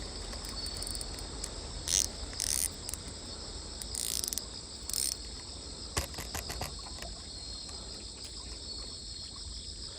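Crickets and other insects chirring in a steady high chorus over a low rumble, broken by a few short rustles and a sharp click about six seconds in.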